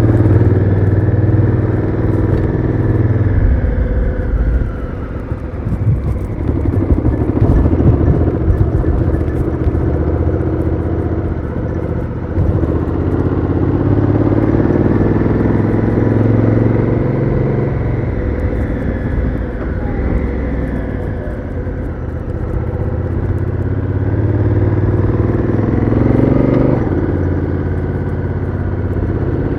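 Honda Africa Twin CRF1000L's parallel-twin engine through its stock exhaust, pitch rising and falling repeatedly as the bike accelerates and the DCT gearbox shifts, with wind rumble over the microphone.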